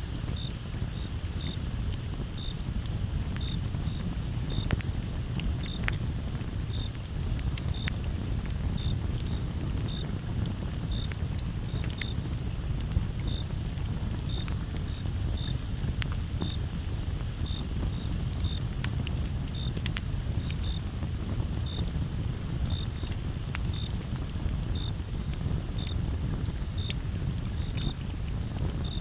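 Campfire crackling and popping steadily, with many sharp snaps of burning wood over a low rumble of the flames. Crickets chirp in short, evenly repeated pulses above a steady high insect drone.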